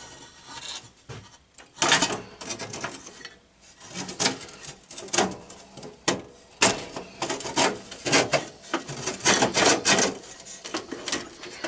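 A battery box being fitted back into a garden tractor: irregular knocks, clunks and scraping of parts being pushed and settled into place, busiest over the second half.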